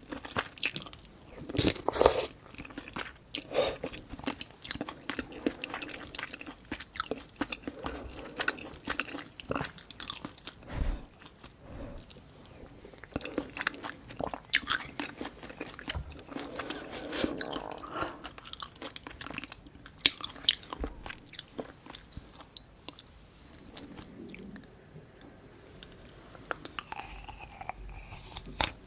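Close-miked eating sounds: a person chewing and biting food, with frequent irregular crunches and wet clicks, a few louder bites about two seconds in and again near twenty seconds.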